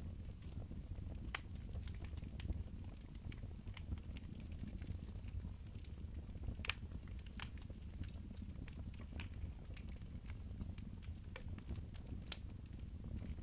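Wood fire in a fireplace crackling and popping at irregular intervals over a steady low rumble, with one louder pop about halfway through.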